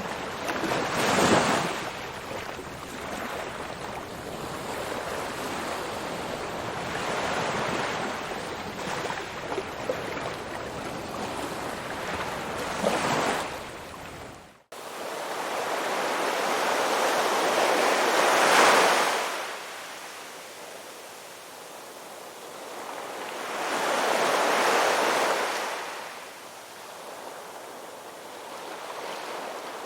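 Ocean waves breaking and washing ashore, rising and falling in slow surges every several seconds. About halfway through the sound cuts out for an instant, then resumes.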